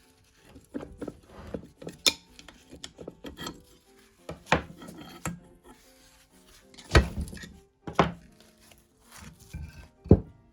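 Workshop handling of metal parts: several sharp knocks and clinks, about five, with scraping and rubbing between them, over background music.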